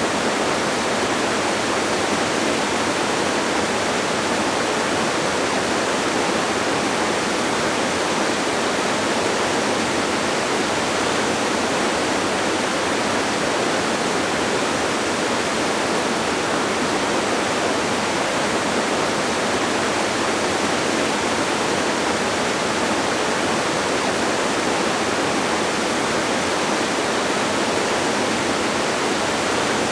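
Distant waterfall: a steady, even rush of falling water, with little deep rumble and no change throughout.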